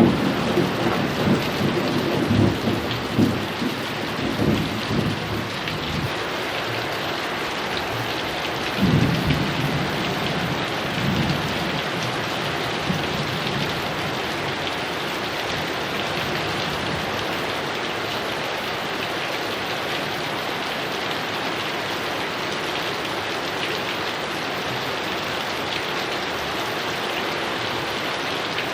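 Heavy rain falling steadily. Rolling thunder rumbles die away in the first few seconds, and a second rumble of thunder comes about nine seconds in, fading by around twelve seconds. After that there is only steady rain.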